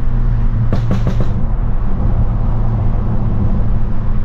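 Straight-piped BMW F30 328i's turbocharged four-cylinder exhaust droning steadily inside the cabin while cruising, with a quick burst of four or five sharp crackles about a second in: pops from its burble tune.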